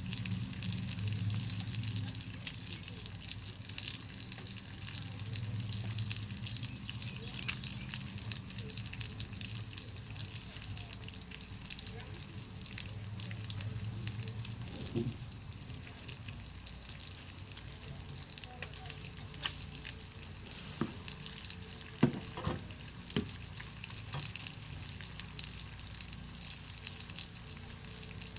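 Bacon sizzling in a pan over an open wood fire, a steady dense crackle and spatter with a few sharper pops or clicks a little past the middle. A low rumble comes and goes through the first half.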